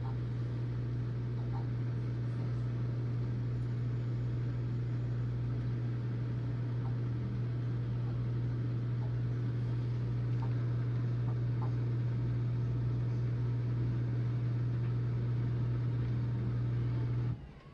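Whirlpool dishwasher's drain pump running with a steady low hum over the noise of water being pumped out. It cuts off suddenly near the end as the final drain finishes.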